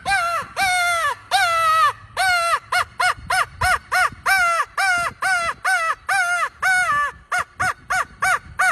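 Handmade burnt Osage orange crow call blown in a run of caws. A few longer drawn-out caws that drop in pitch at the end come first, then a faster string of short, clipped caws, about two or three a second.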